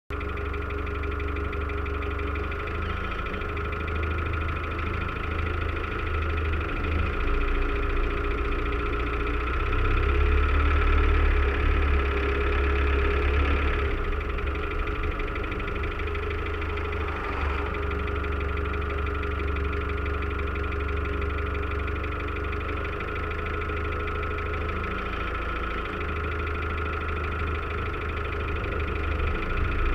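Land Rover Defender 90 engine idling steadily, picked up close from the top of the bonnet.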